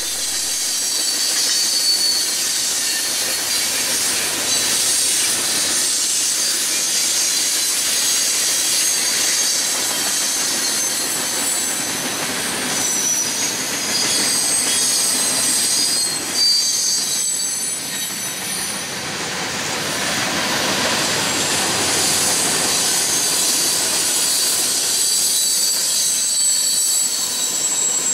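Freight cars of a long mixed train rolling past steadily, with thin, wavering, high-pitched wheel squeal.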